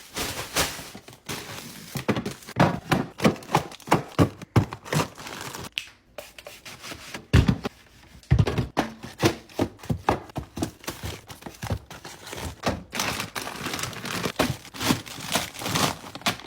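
Food containers and plastic packaging being handled while emptying a fridge: a busy run of clicks, knocks and clatter, with crinkling and rustling of packaging and a couple of heavier thunks about seven and eight seconds in.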